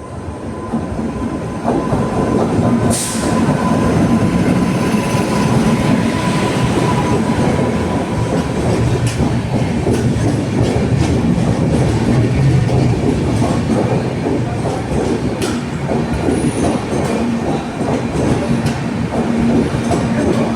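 A train running past close by: a loud, steady rumble of wheels on the rails with a run of short clicks, building up about two seconds in.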